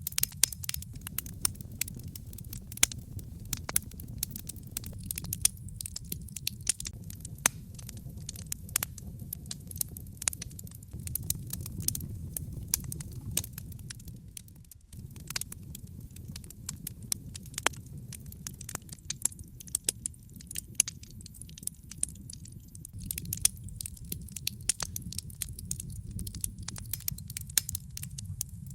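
Wood logs burning in a fireplace, crackling steadily with many sharp pops of varying strength over a low, steady rumble of the flames. The sound dips briefly about halfway through.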